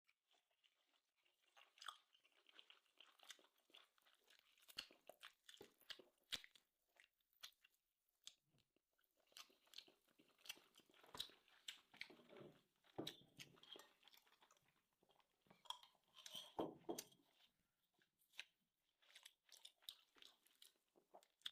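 Faint close-up chewing of grilled tomahawk steak: irregular wet clicks and short crunchy crackles of a mouth working a bite of meat.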